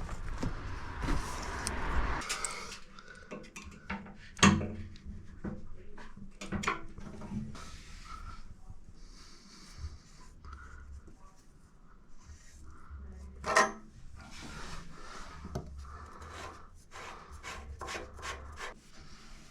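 Work noise of tools and materials being handled: irregular knocks, clatter and rubbing, with a sharp knock about four seconds in and another about thirteen and a half seconds in.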